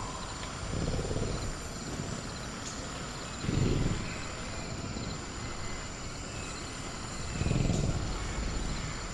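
Sound-effect velociraptor giving low growls that swell up three times, about one, three and a half and seven and a half seconds in, over a steady high drone of crickets.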